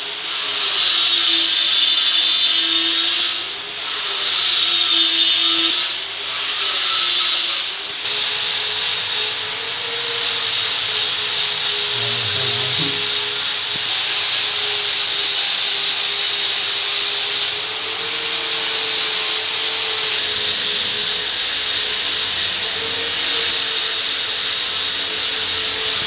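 Electric drill running under load, its motor pitch wavering. It stops briefly three times in the first several seconds, then runs continuously and cuts off abruptly at the end.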